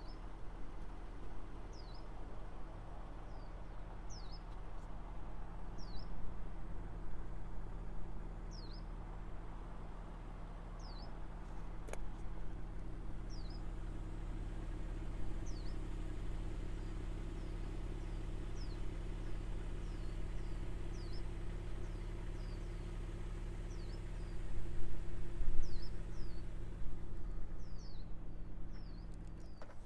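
Steady low hum of an idling car engine. A bird gives a short falling chirp every second or two, and the hum swells louder briefly near the end.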